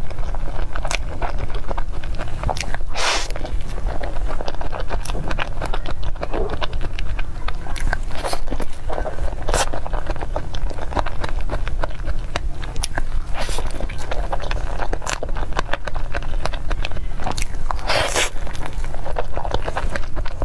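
Close-miked chewing of a soft red velvet crepe towel roll cake with cream filling: wet mouth sounds and many small clicks, with a handful of louder clicks scattered through, over a steady low hum.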